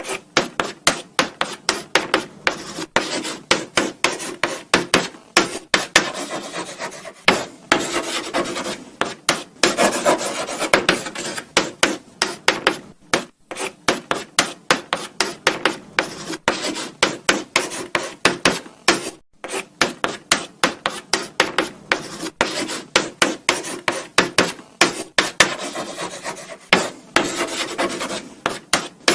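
Chalk writing on a blackboard: quick scratchy strokes in bursts, with brief pauses between them.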